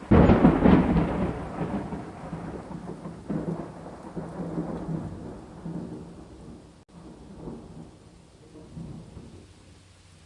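A thunderclap breaks suddenly right at the start, then rolls on as a rumble that fades in several swells over about eight seconds, over steady rain.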